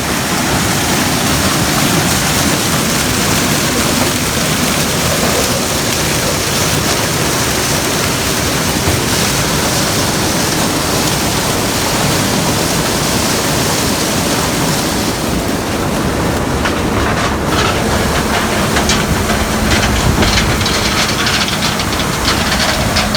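Gleaner combine running in a corn field while harvesting: a loud, steady rushing mechanical noise. From about two-thirds of the way in, scattered short clicks come through, followed by a steady low hum.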